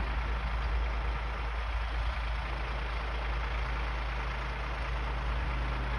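Wind buffeting the microphone outdoors as a steady low rumble and hiss, with a faint steady low hum underneath.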